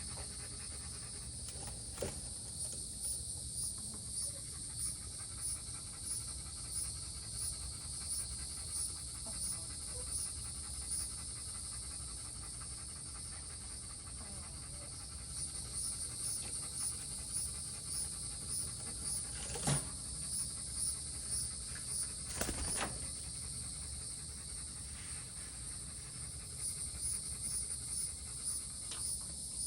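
Insects chirping steadily in a fast, even pulse, high-pitched, with a few sharp clicks or taps.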